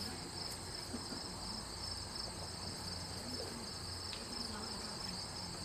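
Crickets chirping in a steady, high trill, over a faint low background hum.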